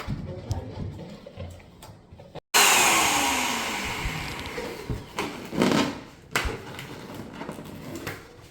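Electric balloon inflator's motor blowing. It comes in abruptly about two and a half seconds in, loud at first, then fades with a falling pitch. A few knocks follow.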